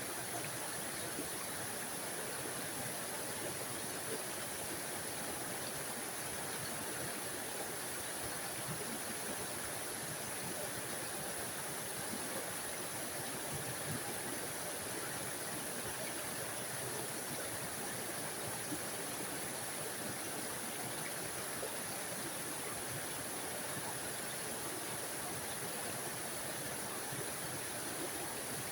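Small forest waterfall on a mountain stream, water splashing and rushing steadily with no change in level.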